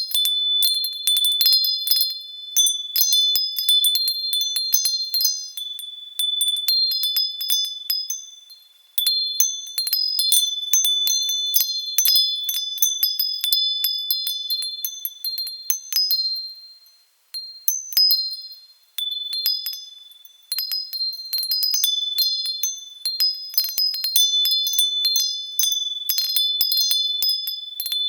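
Wind chimes jingling in the breeze, high ringing tones struck in irregular clusters with a couple of brief lulls.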